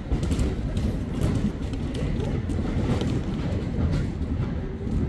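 A train running through the railway station: a steady low rumble with scattered faint clicks.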